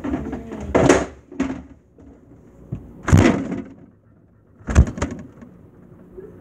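Refrigerator door and the containers in it being handled, heard from inside the fridge: three loud bumps and rattles, about a second in, at about three seconds, and a heavier thump near five seconds.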